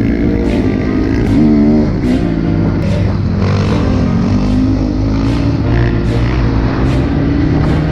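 Off-road motorcycle engines running and revving, their pitch rising and falling.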